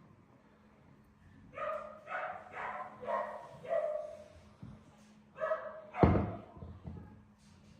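A dog barking: a quick run of about five barks, a pause, then more, with the loudest sharp burst about six seconds in. A faint steady hum sits underneath.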